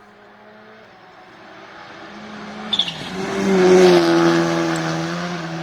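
A rally car approaches at full speed and passes close by, its engine note loudest about four seconds in and dropping in pitch as it goes past, then fading as it drives away.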